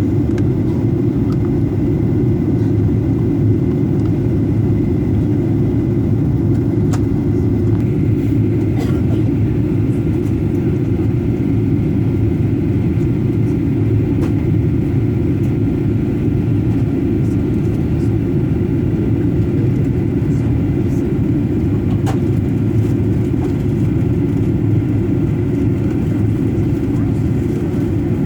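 Jet airliner cabin noise in flight: a steady, loud, low rumble of engines and airflow over the fuselage, with a few faint clicks.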